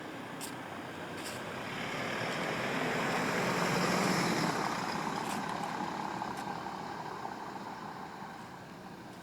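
A road vehicle passing by: its noise grows louder to a peak about four seconds in, then fades away as it drives off.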